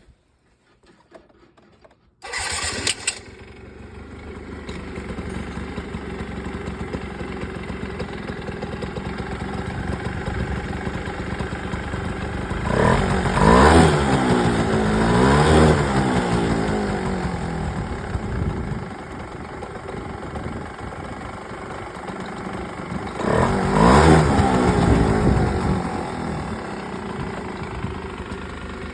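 Yamaha Jog 27V scooter's 50cc two-stroke engine starting about two seconds in, then idling. It is revved up and down in two spells, its pitch rising and falling, and settles back to idle.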